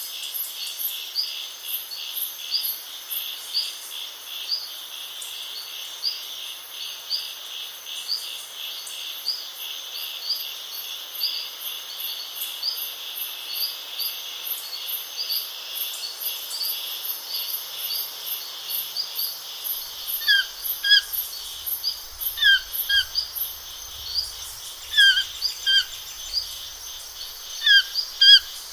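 Insects trilling steadily in a fast, even pulse, with a bird chirping over them. About two-thirds of the way through, a louder bird starts calling in short paired notes that sweep down in pitch, repeated every second or two.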